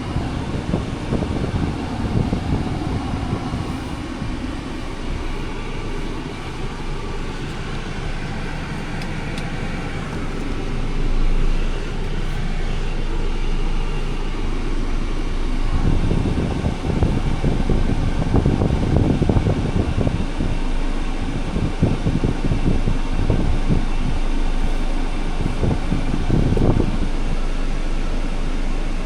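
Scania R500 heavy truck with its 13-litre inline-six diesel running, a steady low rumble that turns rougher and more uneven from about halfway through.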